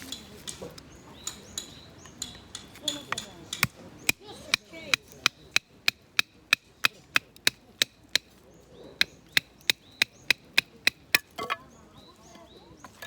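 Firewood being split with a knife and baton: a run of about twenty sharp wooden knocks at an even pace of roughly three a second, after a few scattered strikes.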